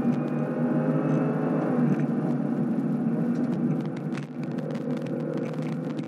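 2016 Cadillac CTS-V's supercharged 6.2-litre V8 running hard at full throttle in fourth gear near 6,000 rpm. The pitch falls about two seconds in and it gets quieter as the throttle comes off for a corner, then it pulls again at a lower pitch. A loose camera mount rattles with fast clicks throughout.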